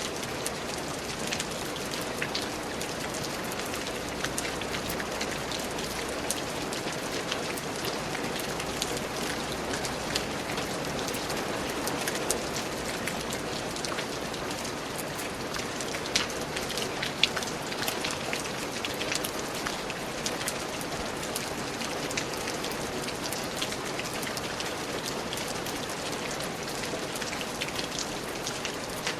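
Steady rainfall, with many individual drops pattering on surfaces.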